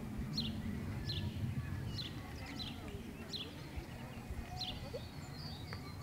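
A small bird calling over and over: a short, high chirp falling in pitch, repeated about once a second or a little faster, over a low background rumble.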